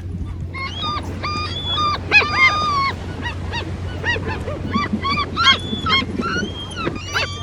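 Gulls calling: a string of short, pitched cries in quick succession, over a steady low hum.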